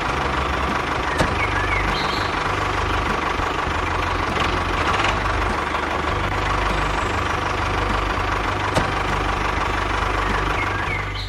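Small engine of a homemade mini tractor running steadily at idle, with a couple of sharp clicks.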